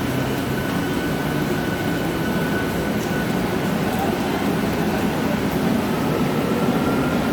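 Mumbai suburban electric local train running: a steady rumble with a faint steady whine over it.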